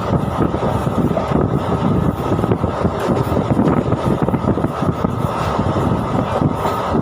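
A moving train's steady rumble on the rails.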